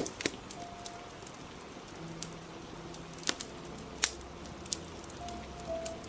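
Steady rain hiss with the sharp pops and snaps of a crackling wood fire, about half a dozen in a few seconds, over soft, slow background music.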